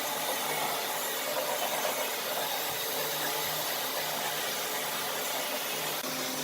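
Electric woodworking power tool running steadily, a continuous hiss over a low hum.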